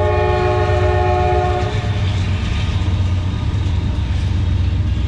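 A train horn sounds a steady multi-note chord that stops about a second and a half in. Under it runs a constant low rumble of the motorcycle's engine and wind.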